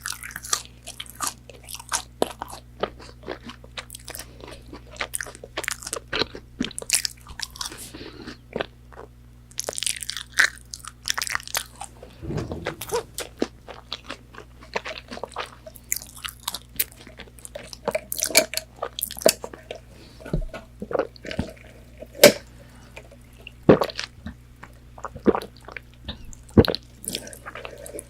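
Close-miked chewing and biting of crispy fried chicken nuggets: dense, irregular crunches and crackles, with a few louder crunches in the second half.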